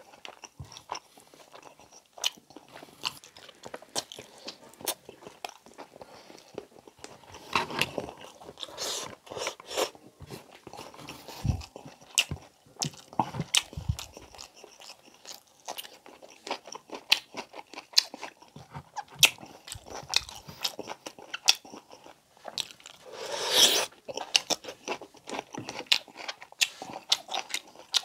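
Close-miked chewing and biting of braised pork belly with rice: a run of short mouth clicks and smacks, with a longer, louder burst about twenty-three seconds in.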